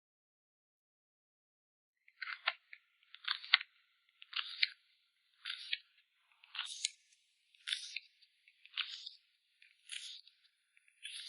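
Plastic card packaging handled in short crinkles and crackles, about one a second, starting a couple of seconds in after silence.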